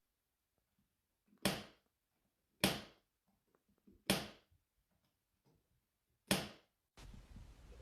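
Four short, sharp impact sounds, spaced one to two seconds apart, each dying away quickly.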